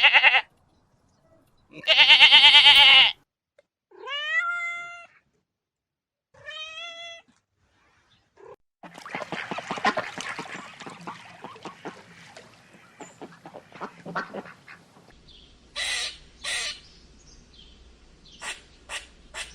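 A goat bleating twice, then a cat meowing twice with rising calls. Then a flock of ducks quacking busily for several seconds, and near the end a squirrel giving a few short, sharp chirps.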